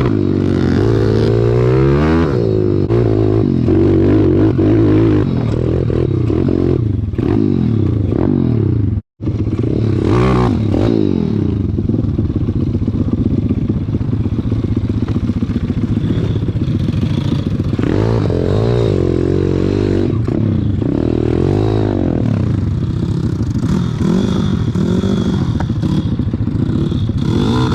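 Pit bike engines running and revving, their pitch rising and falling as the bikes ride, with some clatter. The sound drops out abruptly for a split second about nine seconds in.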